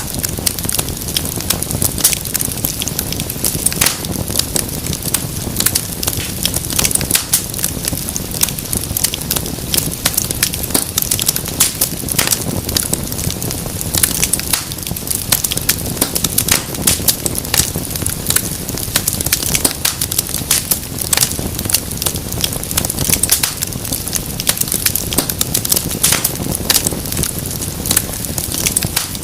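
Wood fire crackling, with frequent sharp pops and snaps over a steady low rumble of flame.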